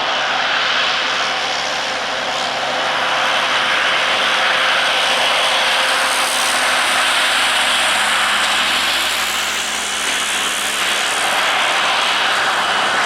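Jet engines of an Airbus A330-300, its Rolls-Royce Trent 700 turbofans, running: a steady loud rush with a faint high whine, swelling and easing slightly.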